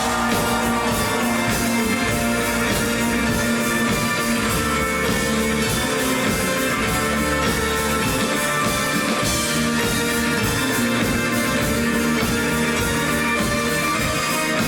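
Live rock band playing an instrumental passage: electric guitar and bass over a steady drum-kit beat.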